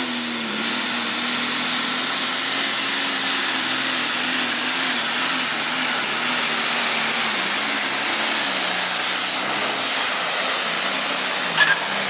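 Super stock pulling tractor's turbocharged diesel engine running at full power under load. A very high whine climbs within the first second and then holds steady over a loud, wavering engine note.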